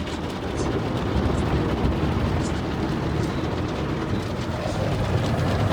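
Automatic car wash heard from inside the car: water and soap spraying steadily onto the car's body over the low rumble of the wash machinery, with scattered drips and ticks.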